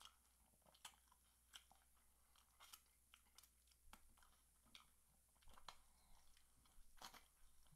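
Faint, scattered crunches and wet smacks of a person chewing fried chicken and pulling the crispy pieces apart by hand, a small click every half second or so.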